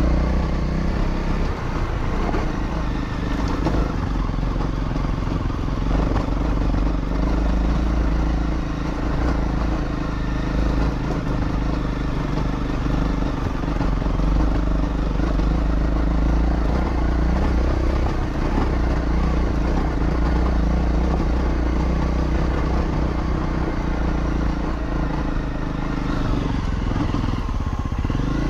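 Honda CRF250 dirt bike's single-cylinder engine running at a steady pace while riding.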